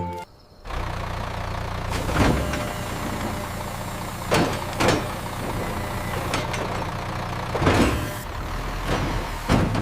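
Cartoon sound effect of a vehicle engine running with a steady low rumble, with a handful of short whooshes passing every second or two.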